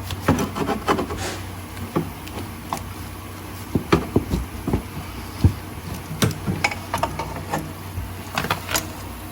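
Irregular clinks and knocks of hand tools and metal parts being handled during an engine teardown, over a steady low hum.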